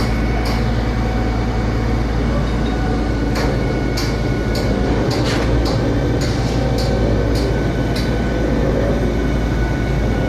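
Concrete pump truck's diesel engine running steadily with a heavy low drone, with scattered sharp clacks over it.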